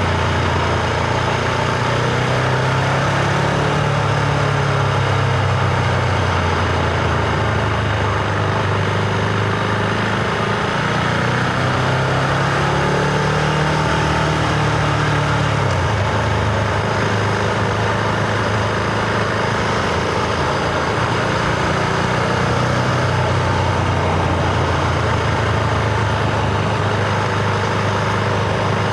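Husqvarna Vitpilen 701's single-cylinder engine pulling the bike along a road, with a steady rush of wind and road noise. The engine note climbs as it accelerates a few seconds in and again past the middle, then drops sharply a little after halfway, as at a gear change.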